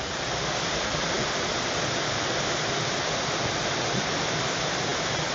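Steady, even hiss of water in the rainforest, with no separate drops standing out.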